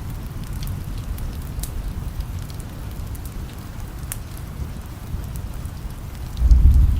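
Steady rain with scattered sharp crackles from a wood fire. Near the end a low rumble of thunder swells up suddenly and becomes the loudest sound.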